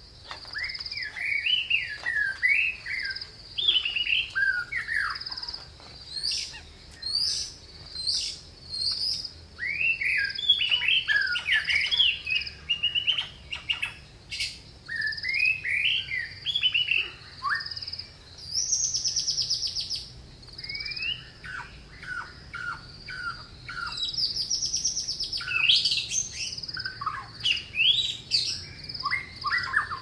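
Many short bird chirps with quick rising and falling notes, one after another, over a steady high buzz. Twice, around the middle and again a few seconds later, a louder, harsher rasping call stands out.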